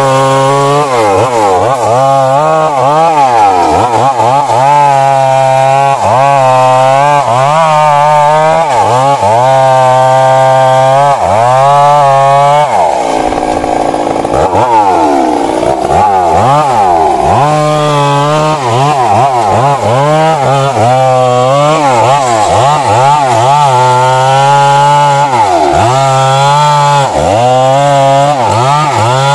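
Stihl MS 382 two-stroke chainsaw cutting into a large tree trunk. Its engine pitch dips and recovers about once a second as the chain bites into the wood, with a longer, deeper bog about halfway through.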